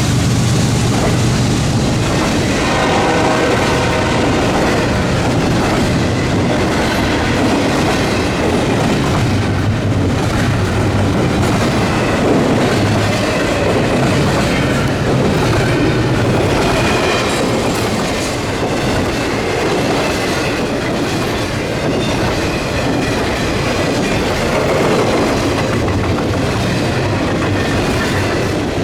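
CSX intermodal freight train rolling past: a steady, loud rumble of cars with wheels clacking over the rail joints.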